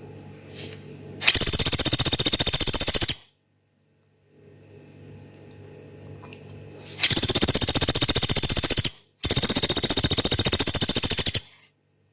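Pelatuk beras, a small pygmy woodpecker, giving three long, harsh, rapid trills. Each lasts about two seconds, one comes about a second in and two come close together in the second half.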